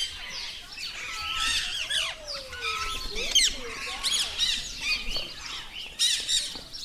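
Many small parrots in an aviary chirping and squawking, with short rising and falling calls overlapping throughout.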